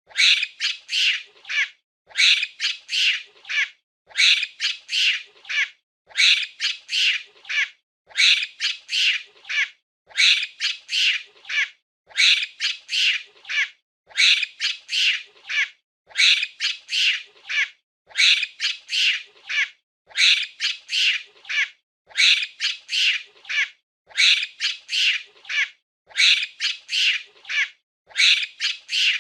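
Monkey calling: groups of four or five short, high-pitched screeches in quick succession, each group lasting about a second and a half and repeating evenly about every two seconds.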